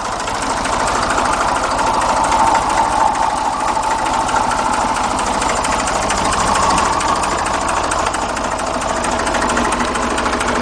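Fordson Dexta's three-cylinder diesel engine running steadily at a slow idle, with a roar from the water pump bearing, which the owner says is due for replacement.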